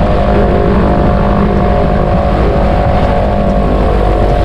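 Seven-cylinder Jacobs radial engine of a 1935 Waco biplane running steadily at run-up power while the propeller is cycled through its pitch range, the check of the controllable-pitch prop before takeoff.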